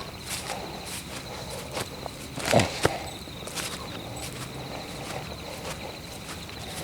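Footsteps walking over a forest floor, about two steps a second, over a steady high insect trill. About two and a half seconds in comes a louder, deeper thud, followed at once by a sharp click.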